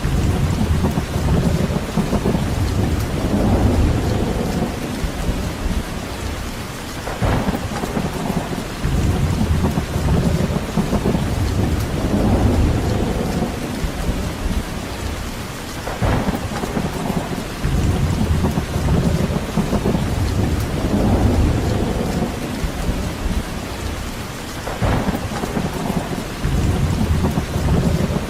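Steady rain, with a deep rumble swelling and fading every few seconds and a sharp crack about every nine seconds.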